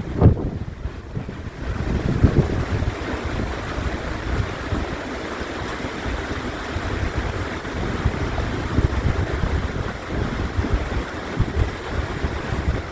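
Wind gusting across the microphone, a low, uneven rumble that swells and drops.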